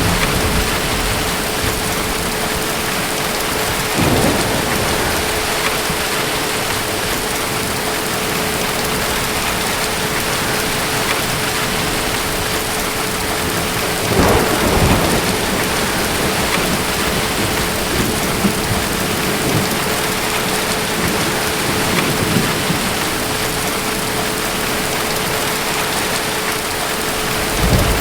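Steady heavy rain with rumbles of distant thunder: one about four seconds in, a stronger one about fourteen seconds in, and another near the end.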